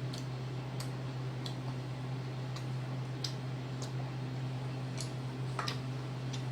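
Light, irregular clicks and taps from eating a bowl of soup, roughly one every half second to second, over a steady low hum.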